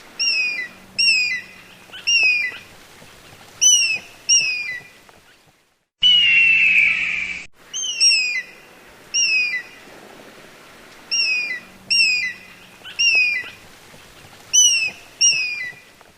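Eagle calling: a series of short, high chirps that each fall in pitch, coming in quick groups, with a louder, longer harsh call about six seconds in.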